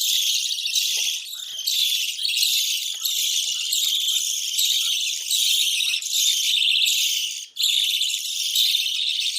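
A flock of budgerigars warbling and chattering continuously, a dense high-pitched chorus of the kind played to stimulate budgies to breed, with a brief break about seven and a half seconds in.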